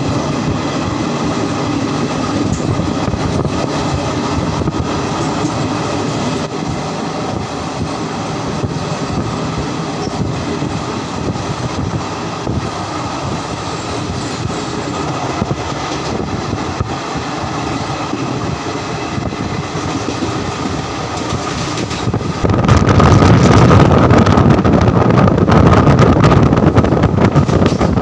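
Howrah–Chennai Mail express train running at speed, heard from on board: wheels rumbling and clicking steadily over the rails. About 22 seconds in it suddenly gets much louder, with wind buffeting the microphone.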